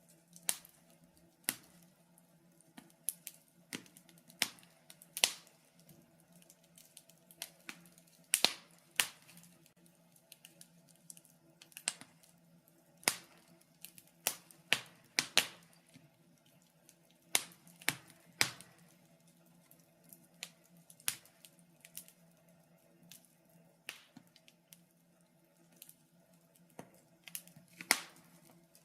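Wood fire crackling in a fireplace: irregular sharp pops and snaps, a few every couple of seconds, some much louder than others, over a faint steady low hum.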